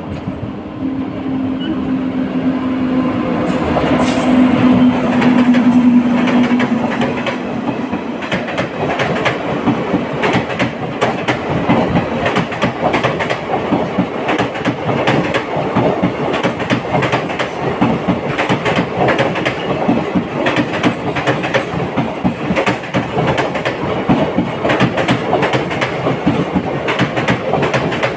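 Krishna Express passenger train running on the rails. A steady low tone sounds while the noise builds over the first six seconds or so. From there on, the wheels clatter over rail joints in a fast, continuous run of clicks.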